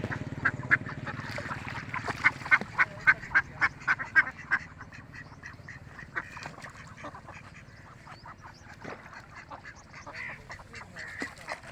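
Ducks quacking: a fast run of loud quacks, about three a second, then fainter scattered quacks.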